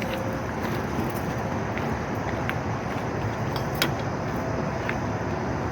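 Steady outdoor background noise with a few faint, sharp clicks scattered through it.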